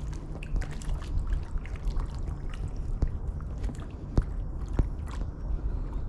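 Close handling noise: scattered small clicks and scrapes over a low rumble, with a few sharper ticks partway through.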